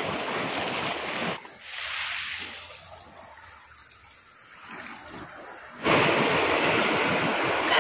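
Sea waves washing against a rocky shore, with wind on the microphone. The noise drops away for a few seconds after about a second and a half, then comes back suddenly near the end.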